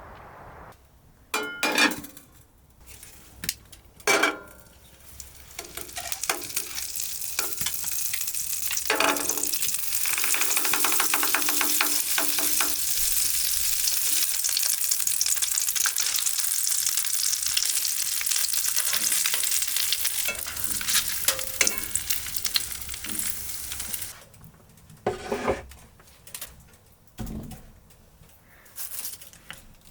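Food sizzling in a hot frying pan. A few clacks of a utensil on the pan come first, then the sizzle builds up, holds loud and crackling for many seconds, and dies away near the end, followed by a few light knocks.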